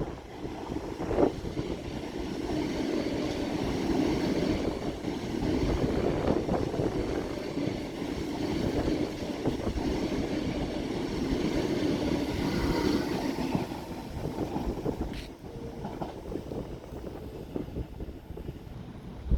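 A train passing on the rails: a steady rumble of wheels and cars that builds over the first few seconds, holds, and eases off after about thirteen seconds, with a few sharp clicks along the way.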